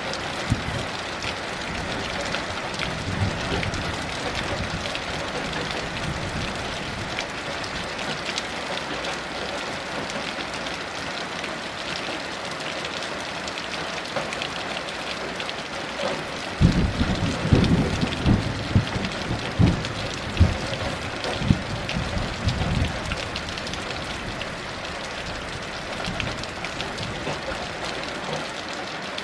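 Heavy rain falling steadily in a thunderstorm. A little past the middle, thunder rolls in with a low rumble and several sharp claps for about six seconds, then dies back under the rain.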